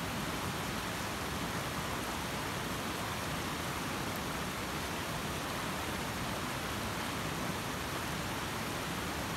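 A steady, even hiss of noise, without clicks or any pitched sound.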